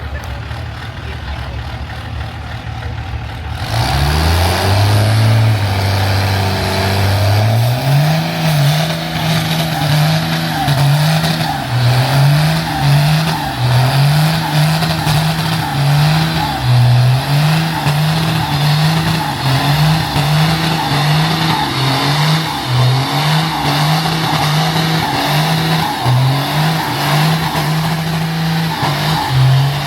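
Pickup truck engine idling, then about four seconds in revving hard and held at high revs with repeated brief dips, as in a burnout. A loud rushing noise rides over it from the moment it revs up.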